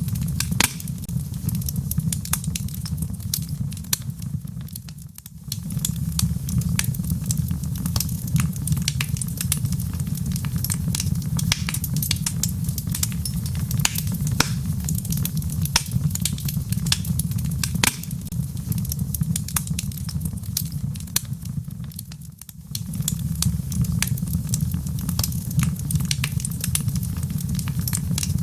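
Wood logs burning in a fireplace, crackling with many sharp pops and snaps over a steady low rumble. The sound dips briefly twice, about five seconds in and again about twenty-two seconds in.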